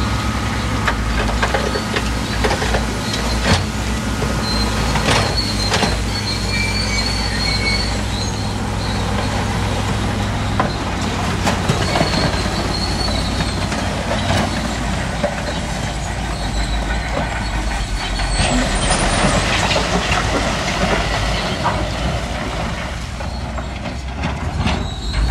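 A bulldozer's heavy diesel engine running steadily, with metallic clanks and brief high squeals from its steel tracks and scattered knocks of rock. A louder, rushing scrape of rock swells about three-quarters of the way through.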